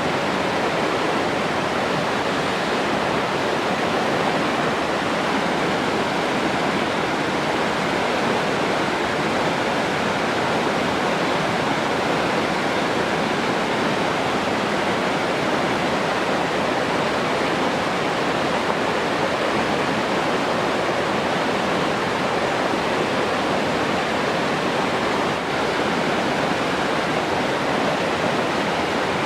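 Steady rushing of flowing water, an even unbroken hiss with no breaks or changes.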